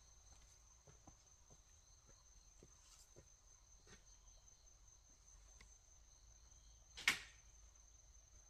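A faint, steady high-pitched insect drone, like crickets, with scattered faint ticks and one brief sharp sound about seven seconds in.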